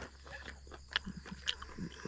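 A person chewing a cooked long bum, the mangrove shellfish: a few faint, scattered mouth clicks and smacks.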